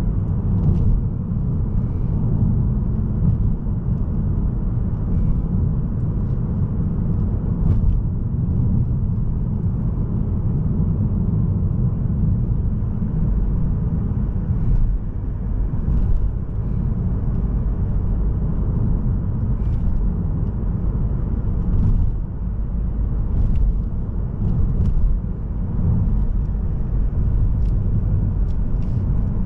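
Car driving along a road: steady low rumble of tyres and a Mazda3's 1.8-litre SKYACTIV-D diesel at cruise, with a few faint ticks.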